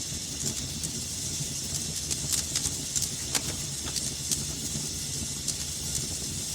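Wood fire burning in a fireplace: a steady hiss and low rumble with irregular sharp crackles and pops, busier in the middle.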